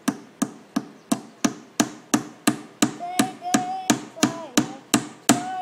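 Hammer driving a nail into wood with steady, even strikes, about three a second, around fifteen blows in all.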